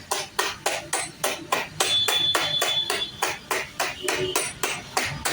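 A hammer striking sheet metal in rapid, even blows, about four to five a second, as the metal is shaped for a motorcycle engine guard.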